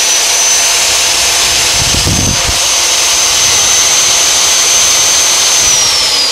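Magnetic-base drill press running while drilling through a steel truck frame rail: a loud, steady high motor whine over a broad grinding noise. The whine falls in pitch near the end as the motor spins down, with a brief low rumble about two seconds in.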